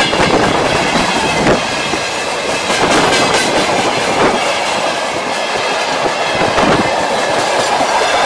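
A train passing close by: its cars rumble steadily, and the wheels clatter over the rail joints.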